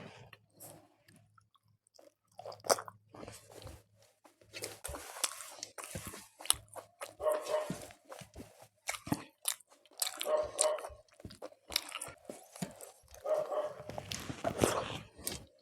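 A person chewing and biting crunchy food close to the microphone, with wet mouth sounds. The crunching comes in bouts every couple of seconds after a short quiet spell at the start.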